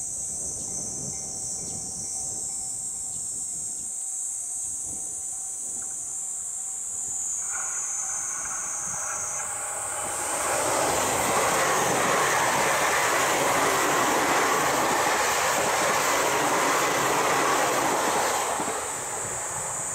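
Tokyu 5000-series electric commuter train approaching and passing on the track. The rush of its wheels and running gear builds about a third of the way in, is loudest for several seconds, and falls away shortly before the end.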